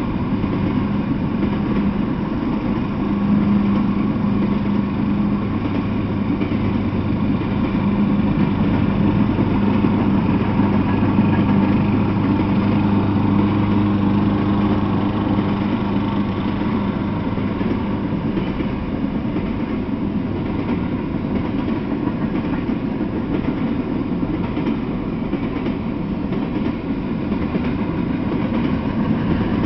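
Freight train of tank cars rolling past: a steady rumble of steel wheels on the rails. A low, steady engine hum stands out through the first half and fades a little past halfway.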